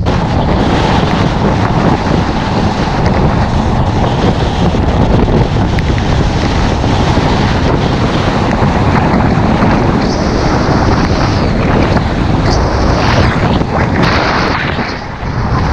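Wind buffeting the microphone: a loud, steady roaring rush that dips briefly near the end.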